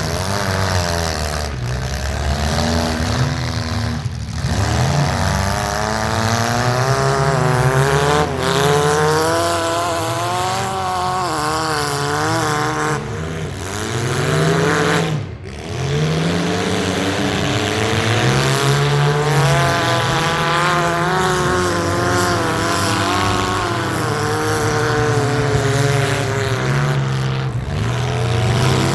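Several compact cars' engines revving up and down together in a demolition derby heat, their pitches rising and falling as the drivers accelerate and back off.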